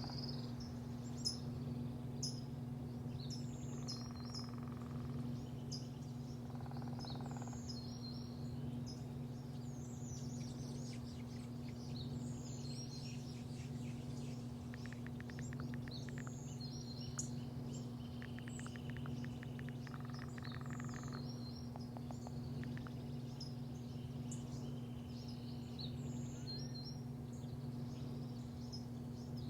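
Small birds chirping and trilling repeatedly over a steady low mechanical hum.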